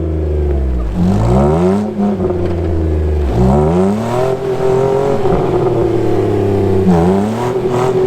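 Jeep engine revving in three bursts of throttle, each a quick rise in pitch that falls back, over a steady engine drone, as the Jeep works through deep snow.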